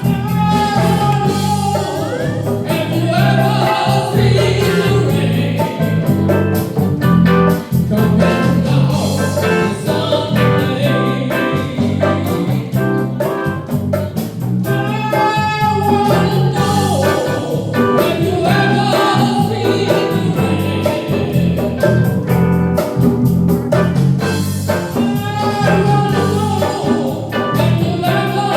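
A band playing a rock song with a singer and backing vocals, a steady bass and drum beat under the melody.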